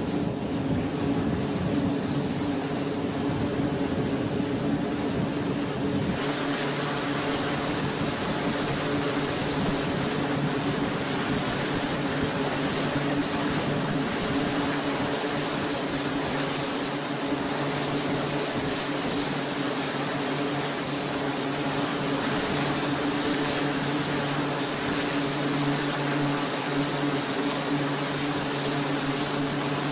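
E-2 Hawkeye's twin turboprop engines and propellers running, a steady droning hum. About six seconds in, a loud rushing hiss joins it and continues.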